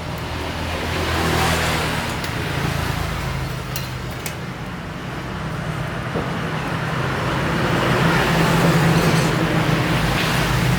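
Passing road traffic: a steady low engine rumble, with the noise of vehicles swelling and fading twice.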